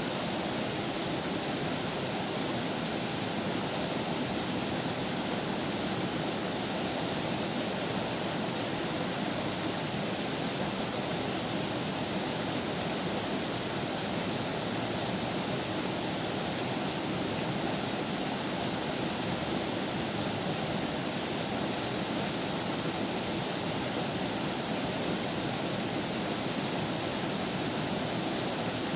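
River water flowing steadily, an unbroken rushing with no change in level.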